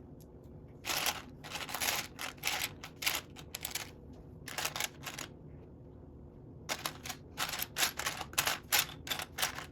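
Small plastic Lego pieces clicking and rattling as they are handled and pressed together, in clusters of sharp clicks with a brief lull just past the middle, followed by a quick run of clicks.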